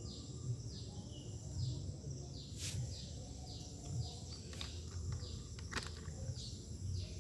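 A bird calling over and over: short high chirps that slide down in pitch, about two a second, over a low rumble of handling noise on the microphone.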